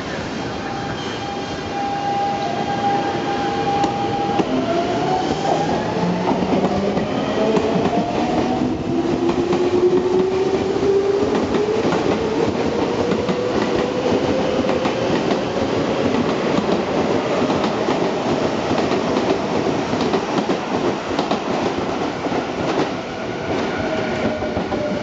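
Seibu 6000 series electric train pulling out of a station: the whine of its traction motors rises steadily in pitch in several tones as it gathers speed, over the rumble and clack of wheels on the rails.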